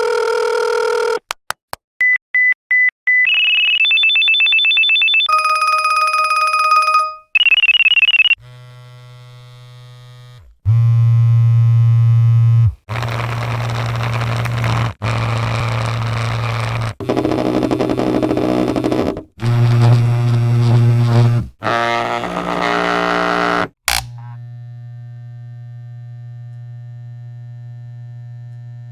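A run of separate electronic technology sound effects: phone-style ringing and beeping tones of different pitches in the first eight seconds, including a quick string of short pulses, then a series of buzzing, humming clips that each stop abruptly. It ends in a steady, quieter low hum.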